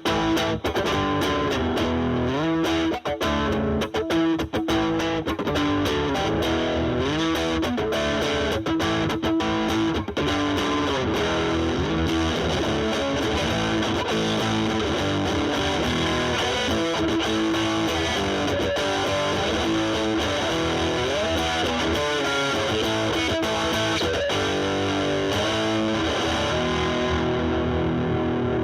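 Electric guitar (Fender Stratocaster) through a Boss DS-2 Turbo Distortion pedal and a Marshall Valvestate amp's drive channel, played with the distortion cleaned up to a lighter crunch. Choppy picked notes and chords give way after about ten seconds to more sustained melodic lines with bends.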